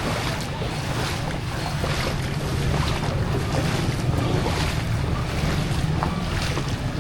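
Floodwater sloshing and splashing in repeated strokes, as of wading through a flooded street, over a steady rumble of wind buffeting the microphone.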